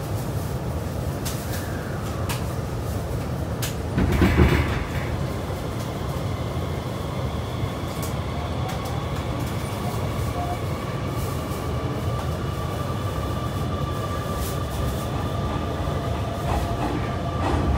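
Hanshin 9300 series electric train running, heard from inside the passenger car: a steady low rumble with a few clicks. There is a brief louder rumble about four seconds in, and a faint steady whine through the second half.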